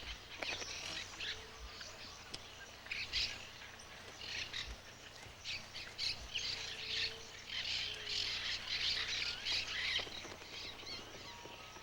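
Monk parakeets squawking and chattering at their colony nest, a dense run of short overlapping calls. Soft music comes in near the end.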